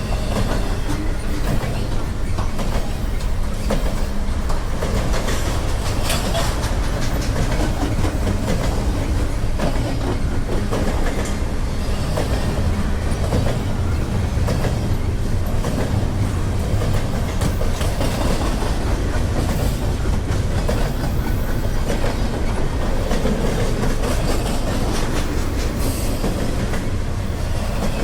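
Freight train rolling past: a steady loud rumble of wheels on rail, with frequent clicks from the wheels.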